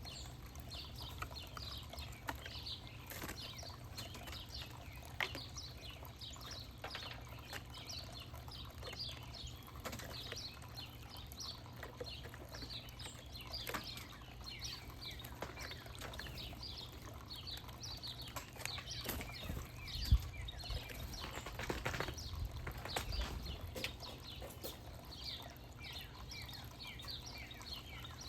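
Small birds chirping constantly in short, rapid calls, with a sharp thump about two-thirds of the way through and a few softer knocks just after it.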